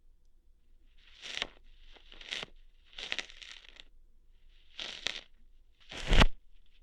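Close-miked ASMR ear-hair plucking: five short crackly, tearing bursts about a second apart, the last one loudest with a dull thump against the microphone.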